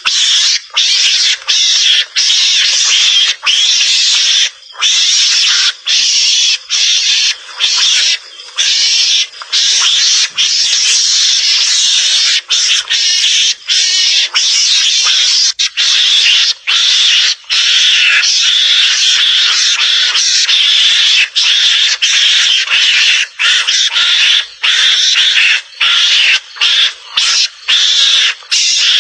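Mongoose (garangan) calls used as a hunting lure: a harsh, hissing chatter that runs on almost without pause, broken every second or so by brief irregular gaps.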